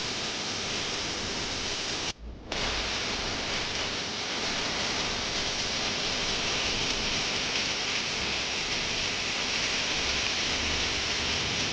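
Heavy rain falling, a steady dense hiss of water. The sound cuts out for a moment about two seconds in.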